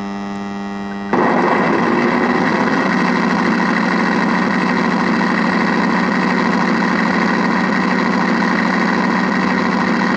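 An RC plane's sound module gives a steady electrical hum, which the owner puts down to interference. About a second in it cuts over abruptly to a simulated piston warbird engine starting and then idling steadily through its speaker.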